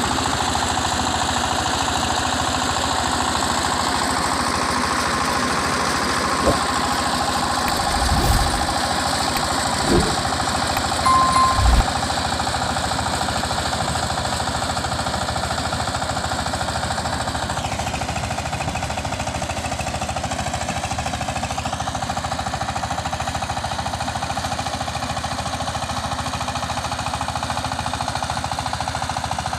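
Single-cylinder diesel engine of a DF walking power tiller running steadily with a rapid chugging knock. A few short knocks come about eight to twelve seconds in.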